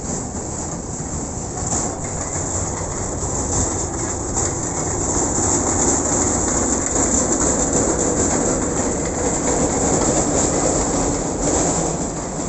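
Jet aircraft passing overhead: a steady rushing roar that swells toward the middle and eases near the end.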